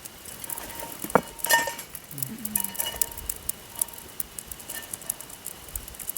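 Metal cooking pots and utensils clinking and scraping during camp meal preparation: a string of sharp clicks and taps, with a louder knock about a second in.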